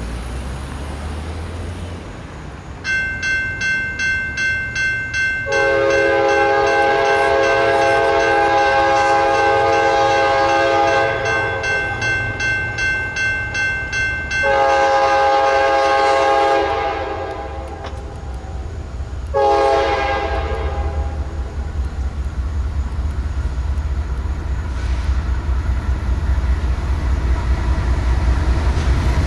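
A CSX freight locomotive's air horn sounds the grade-crossing pattern: a long blast, a second long blast, then a short one, with the final long blast starting at the very end. A bell rings about twice a second under the first two blasts. The low rumble of the diesel locomotive and train grows over the last several seconds as it draws closer.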